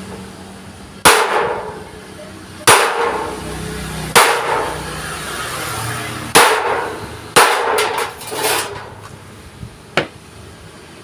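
Hammer blows on thick steel plate, struck irregularly about once every second or two with a quick run of blows near the middle, each ringing briefly.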